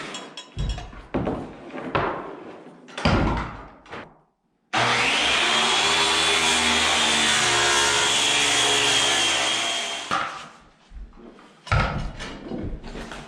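Scattered knocks of wood and tools being handled, then a power saw starts, its whine rising and then holding steady as it runs for about five seconds, before cutting off and giving way to more knocks.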